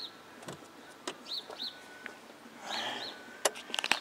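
A bird chirping: short, high, arched chirps repeated about every second. Near the end comes a quick run of sharp clicks, the loudest sound here.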